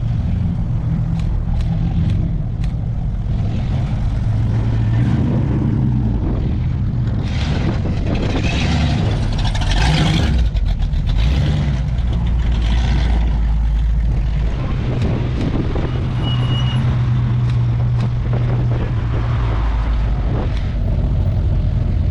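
Engines of classic American cars and trucks rumbling as they drive past one after another, with louder swells about a third of the way in and around the middle as nearer vehicles go by.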